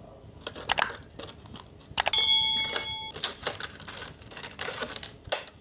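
Handling noise as small foam wind muffs are fitted onto an Insta360 X4 camera's velcro pads: scattered light clicks and rustling. About two seconds in there is a sharp click followed by a ringing tone that lasts about a second.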